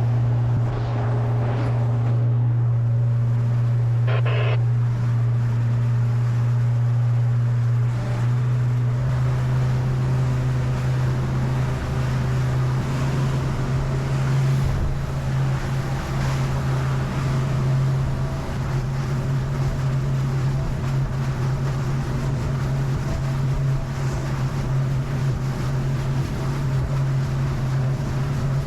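Boat's outboard motor running steadily under way, a constant hum, with the rush of water against the hull and wind on the microphone.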